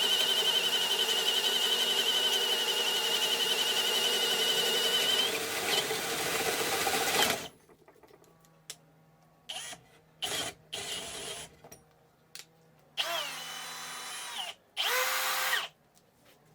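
Bosch GSR 185-Li 18 V cordless drill running steadily with a high whine for about seven seconds, then stopping abruptly. It is followed by several short bursts of the motor spinning up and stopping, one of them dipping and rising in speed.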